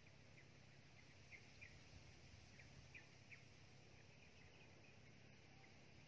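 Near silence with a faint low hum, broken by a handful of short, faint, high bird chirps over the first four seconds or so.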